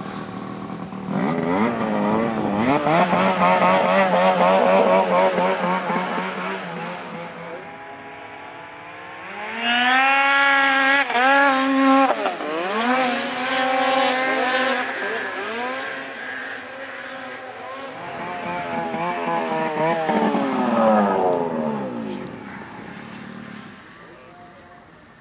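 Turbocharged two-stroke snowmobile engines racing under hard throttle, the revs climbing and dropping again and again. They are loudest about ten seconds in and again about twenty seconds in, then fade away near the end.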